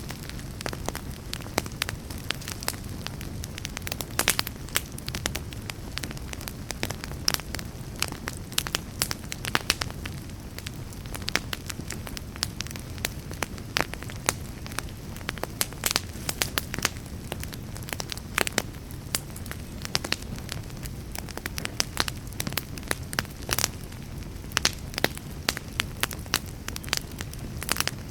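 Wood fire in a fireplace, crackling steadily: irregular sharp pops and snaps over a low, even rumble of flame.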